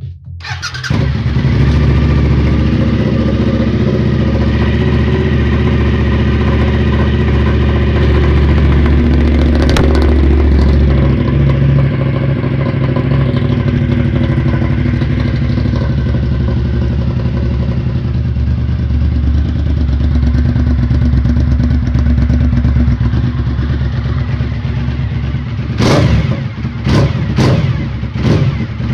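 Suzuki SV1000S 90-degree V-twin starting about a second in through a new exhaust, then idling, with a few quick throttle blips near the end.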